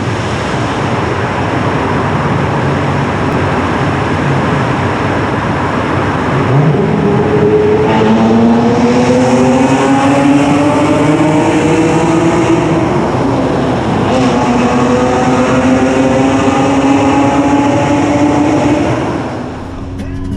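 1995 Ford Probe's KL-DE V6 with a partly missing exhaust, under way with a loud, rough exhaust note. After a steady drone for the first few seconds the revs climb, drop at a gear change about fourteen seconds in, and climb again, before the throttle is lifted near the end.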